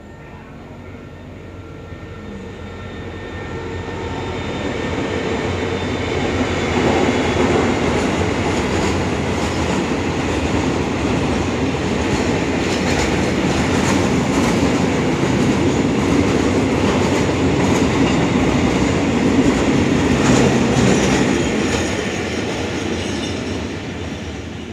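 Freight train hauled by a QSY-class diesel-electric locomotive passing with a string of container flat wagons. The rumble builds over the first several seconds, stays loud with wheels clacking over rail joints, and begins to fade near the end.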